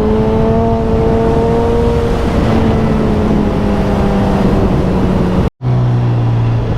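Suzuki 1000cc naked motorcycle's engine pulling steadily through a bend on a held throttle, with wind rush on the rider's microphone. About five and a half seconds in, the sound cuts out for an instant and comes back with the engine at a lower, steady note.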